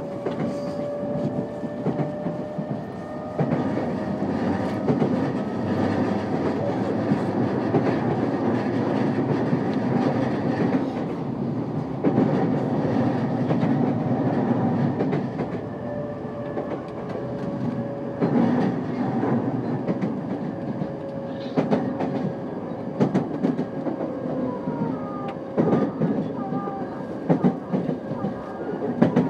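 Running sound inside a JR East E233-5000 series electric train: a steady rumble from the wheels and rails, with wheels clicking over rail joints every few seconds. A faint steady tone comes and goes.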